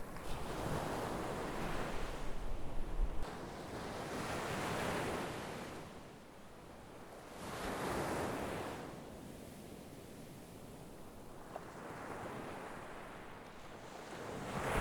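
Sea waves breaking and washing up the shore in repeated surges, one every three to four seconds, each swelling and then fading. Wind rumbles on the microphone during the first three seconds.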